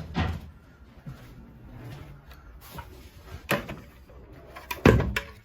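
A few scattered sharp knocks and thumps over a low rumbling background, the loudest near the end.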